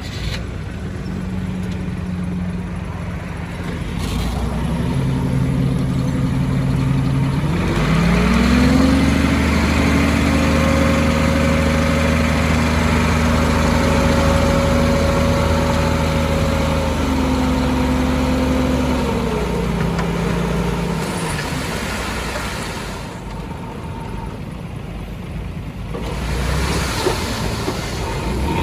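Heavy construction machine's diesel engine revving up under load, holding high for about ten seconds, then dropping back toward idle.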